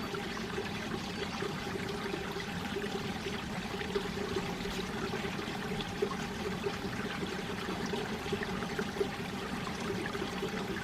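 Mountain stream water running over rocks, a steady babbling flow with small splashes and gurgles throughout.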